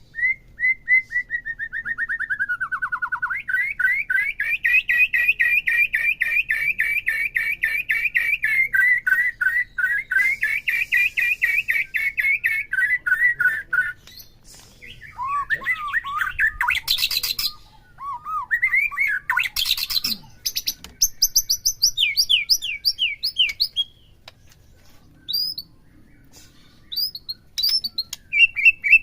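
Songbird singing: a long, fast trill of about ten repeated notes a second that rises and falls in pitch, then a run of varied short whistled phrases and high chips, with a fresh fast trill near the end.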